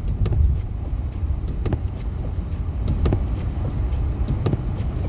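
Steady low road and engine rumble inside a moving vehicle's cabin, with a sharp click about every second and a half from the hazard flashers.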